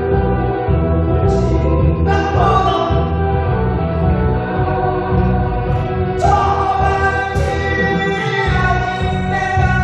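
Korean trot song playing: a singing voice over a band accompaniment with a steady beat.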